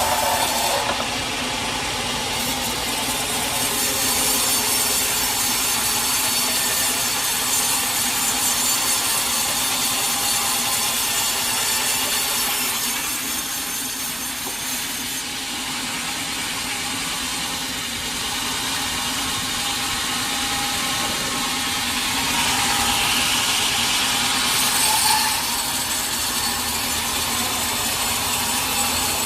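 Sawmill saw cutting steadily through a large teak log.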